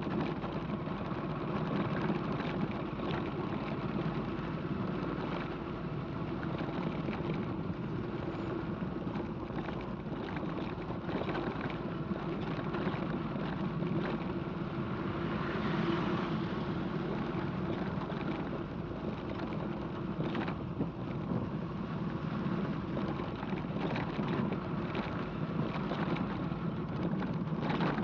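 Motorcycle engine running steadily while riding, with wind noise on the microphone and frequent small knocks.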